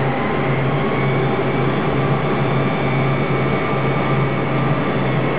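Steady cockpit noise of a Boeing 747 on the ground with its engines running: an even rush of air and engine noise over a constant low hum.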